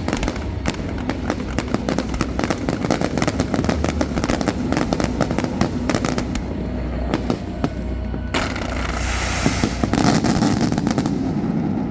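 Aerial fireworks crackling densely, many sharp cracks each second without a pause, with a hissing rush for a couple of seconds near the end.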